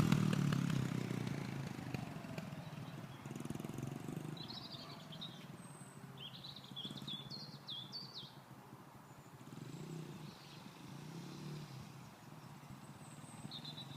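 Honda XR100's small four-stroke single-cylinder engine pulling away and fading into the distance, then running faintly with a slight swell later on. Birds chirp in the middle.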